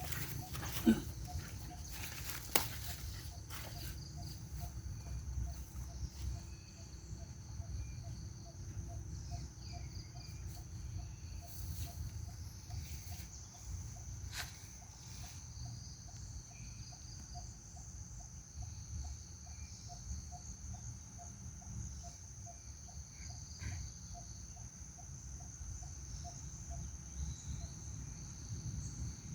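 Insects droning steadily at a high pitch, with a faint lower call pulsing about twice a second. Two sharp knocks about one and two and a half seconds in.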